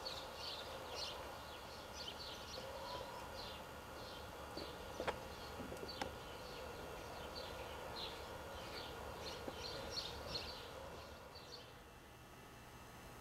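Small birds chirping in quick, short high notes, dying away near the end, with a couple of sharp clicks about five and six seconds in.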